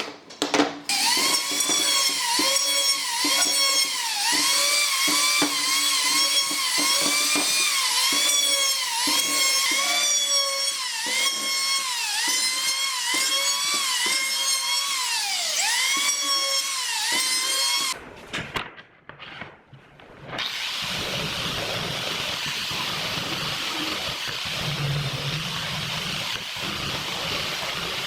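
A small electric power tool's motor whining at high speed, its pitch repeatedly sagging and recovering as it is loaded and eased off, for most of the first eighteen seconds. After a short pause, a steady hissing noise follows.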